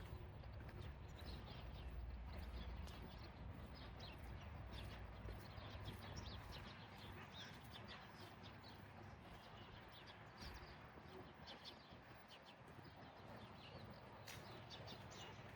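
Faint chirping of small birds: many short calls throughout, over a low rumble that fades out about six seconds in.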